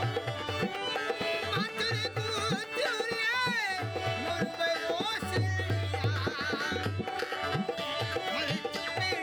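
Rajasthani Manganiyar folk music played live: a tabla-like hand-drum rhythm with a deep repeating bass pulse under an ornamented, wavering melody line.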